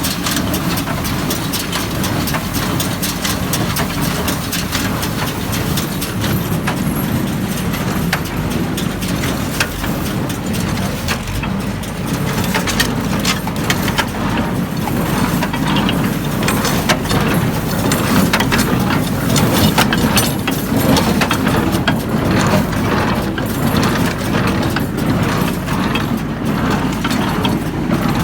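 IH 430 square hay baler running under tractor power during test baling, with a steady engine drone and a regular knocking beat from the baler's working parts.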